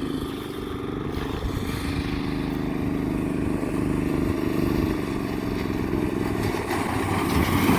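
Small chain-drive engine running steadily with a rough, low engine note that gets a little louder near the end.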